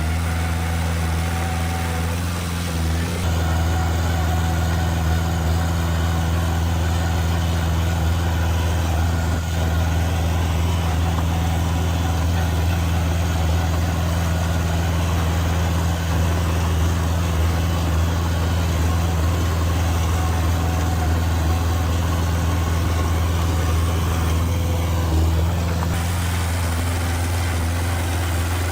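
Heavy diesel engine of earthmoving machinery running steadily with a deep, even hum, stepping up slightly about three seconds in.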